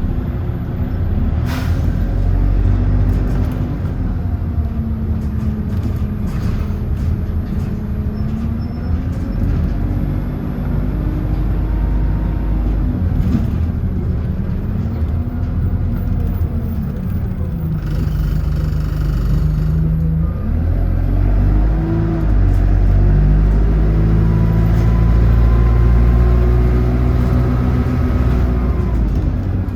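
City bus engine and drivetrain heard from on board, with a deep rumble. Its pitch falls and rises several times as the bus slows and speeds up.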